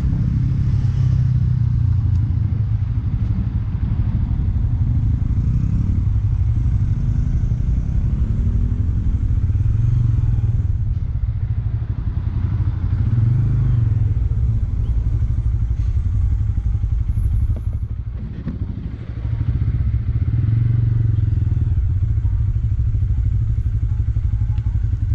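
Bajaj Pulsar N160's single-cylinder engine running steadily while the motorcycle is ridden. The sound dips briefly about eighteen seconds in, then picks back up.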